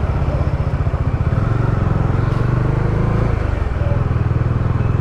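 Motorcycle engine running with a steady, rapid low pulsing while riding, picked up by a lavalier mic inside the rider's helmet.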